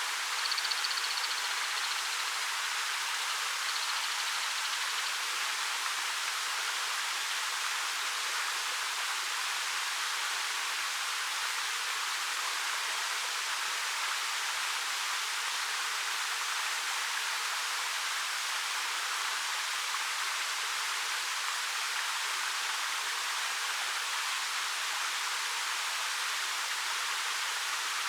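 A 13 m waterfall pouring over dark rock: a steady, even rush of falling water.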